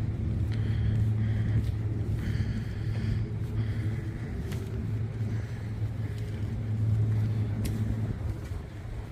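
Deep steady engine drone of a departing Uber Boat Thames river boat, easing off near the end.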